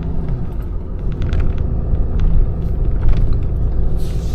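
Tow truck running as it rolls slowly, a steady low rumble with scattered rattles and clicks, and a short hiss near the end.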